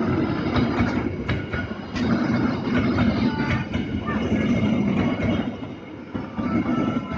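Passenger train carriages passing close by: a steady rolling rumble with the wheels clacking over rail joints at a regular beat.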